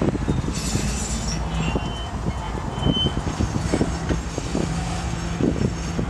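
Freight train's autorack cars rolling slowly past: a steady low rumble with irregular clunks and clicks from the wheels on the rails, and a couple of brief high metallic squeals about a second and a half and three seconds in.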